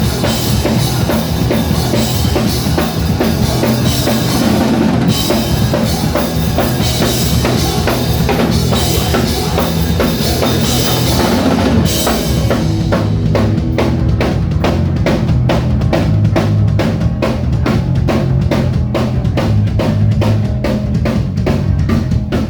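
Live band playing an instrumental stretch of a song: full band with drums and cymbals, then about halfway through the cymbals drop out, leaving a steady drum beat over the bass.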